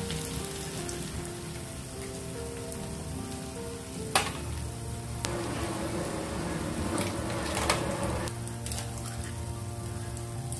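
Tomato-onion masala sizzling gently in a pan, with a sharp crack about four seconds in and a few lighter clicks later as eggs are broken open over the pan.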